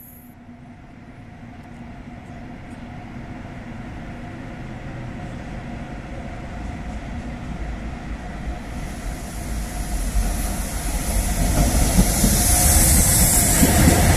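Two Bombardier Traxx class 186 electric locomotives heading a freight train on approach, the rumble and wheel-on-rail noise growing steadily louder until the locomotives pass close by near the end.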